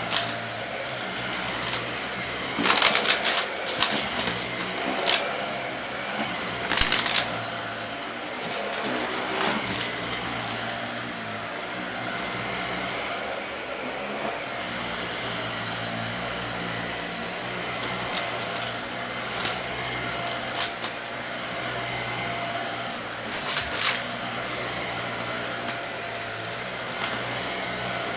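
Vacuum cleaner running steadily while it sucks up dry debris, with bursts of crunching and crackling as the debris rattles through.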